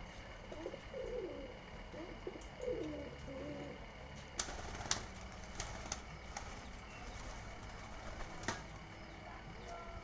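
Domestic pigeons cooing for the first few seconds, followed by a few sharp claps about halfway through and one more near the end.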